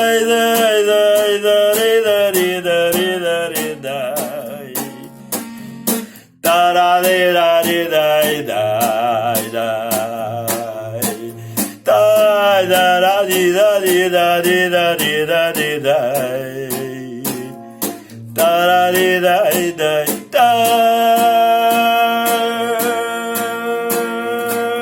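Acoustic guitar strummed under a man's wordless singing: long held notes with a wavering vibrato. The last note is held for about four seconds and slides down at the end.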